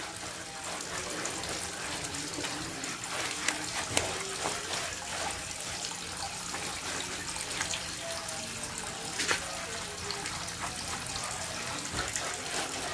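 Water running steadily from a tap and splashing while a dog is bathed, with a few short sharp knocks or splashes.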